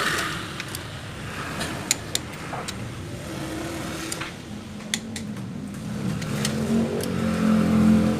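Car engine running, swelling in level from about six seconds in as if revving or drawing near, with scattered sharp clicks and knocks throughout.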